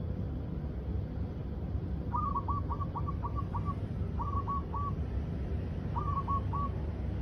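A dove calling: a quick rolling run of about six pulsed notes, then two shorter rolls of about three notes each.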